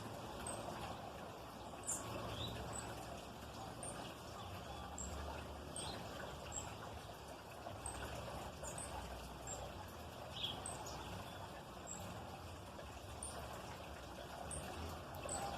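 Small birds calling with short, high chirps, repeated irregularly about once or twice a second, over a steady background hiss.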